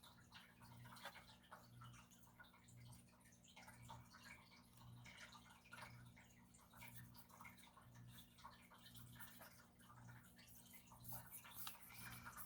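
Near silence: faint light ticks and scratches over a low hum that swells about once a second.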